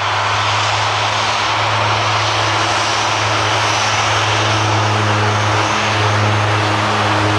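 Logan Air airliner taking off, its engines at take-off power making a steady, loud rush of engine noise.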